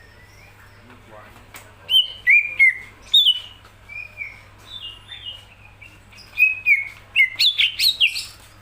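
Green leafbird (cucak ijo) singing loud, clear whistled notes and slurs, starting about two seconds in, with a quicker run of notes near the end.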